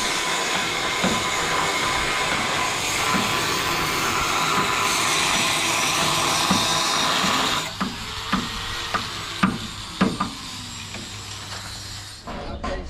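Workshop tool noise during wooden truck-body building: a loud, steady hiss-like power-tool noise that cuts off suddenly about eight seconds in, followed by about five sharp hammer knocks a half-second apart and then quicker tapping near the end.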